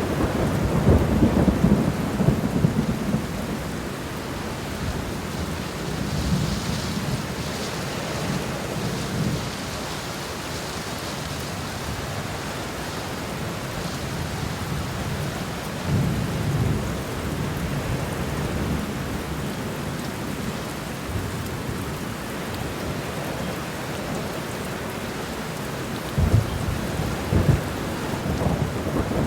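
Steady rain falling, with low rolls of thunder: one in the first few seconds, a shorter one about halfway through, and another near the end.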